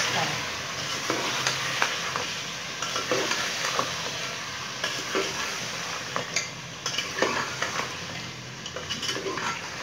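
Chicken, potatoes and tomatoes frying and sizzling in oil in a metal pot while a long-handled spoon stirs the spices through, scraping and clicking against the pot at irregular moments over a steady sizzle.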